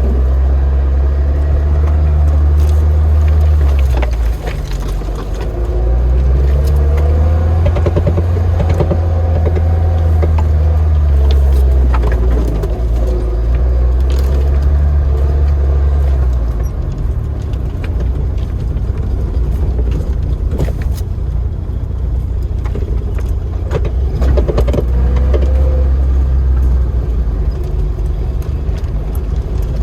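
Lada Niva running as it drives, a loud low engine drone that dips near four seconds and shifts again from about sixteen seconds in, with frequent short knocks and rattles.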